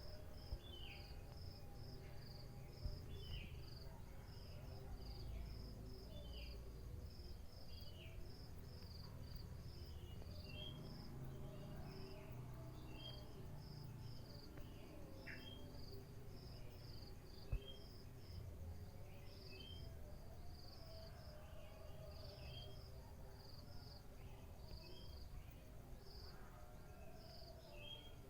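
Crickets chirping in a steady run of short high pulses, about two a second, with scattered short bird calls over a low rumble.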